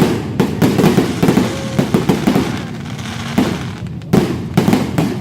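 New Year fireworks going off in a rapid run of bangs and crackling, several a second, with a heavier bang about four seconds in.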